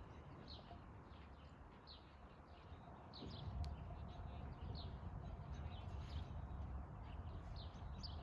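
Small birds chirping, short high downward chirps about one or two a second, over a low rumble that grows louder about three seconds in.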